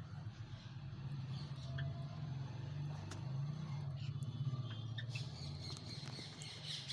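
Scattered short, high chips from caged Java sparrows over a steady low hum, the chips coming more often in the second half.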